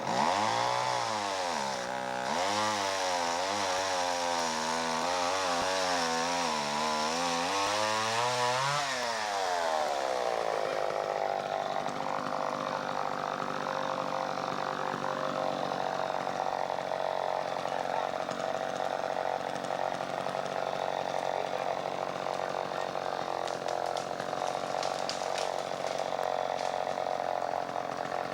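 Chainsaw cutting into a tree trunk, making a straight cut across from the back. Its engine pitch swings up and down for the first nine seconds or so, then holds steady at a higher speed in the cut.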